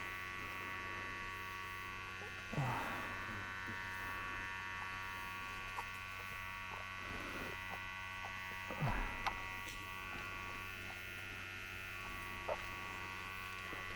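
A steady electric buzz made of several fixed tones, with a few faint brief sounds about two and a half seconds and nine seconds in.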